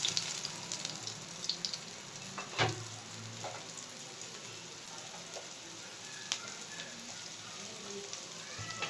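Breadcrumb-coated chicken pieces shallow-frying in a little hot oil, a steady sizzle. The sizzle flares as the second piece goes into the pan at the start, and a few sharp pops of spattering oil come through.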